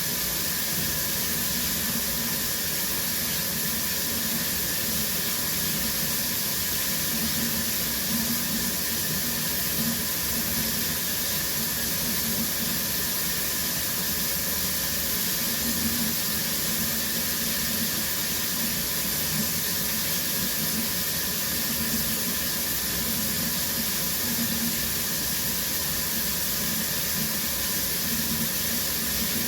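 Shower running steadily, the spray falling as an even, unbroken hiss of water with a low rumble beneath it.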